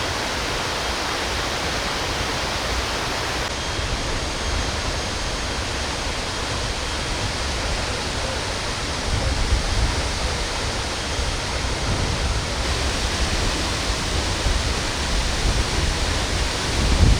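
Tad Etu waterfall, rushing water making a steady dense roar. Low rumbles swell in the second half.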